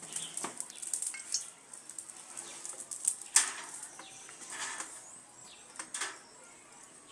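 A knife cutting up a freshly slaughtered chicken: irregular short scrapes and slicing sounds, with light knocks of the knife and carcass against the dish, the loudest about halfway through.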